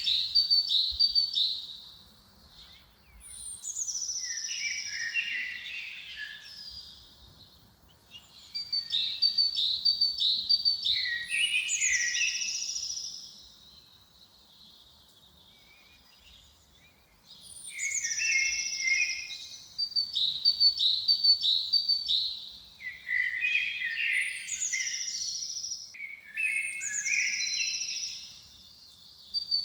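Songbird singing repeated bright phrases, each a rapid series of high chirping notes with downward-sliding whistles, separated by short pauses and a longer lull about halfway through.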